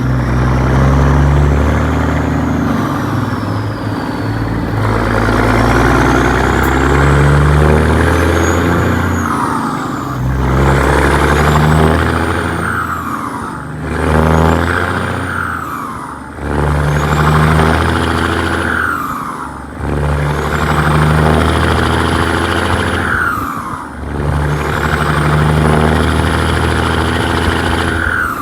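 1998 Peterbilt's Caterpillar 6NZ (3406E) diesel engine pulling hard through the gears, with a short dip in sound at each of about six gear changes. A high whine rises and falls with each pull.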